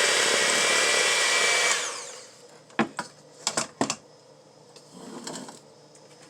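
Electric mixer running steadily, then switched off and winding down about two seconds in, after mixing a cream cheese and peanut butter filling. A few sharp clicks and knocks follow, with a brief softer scrape.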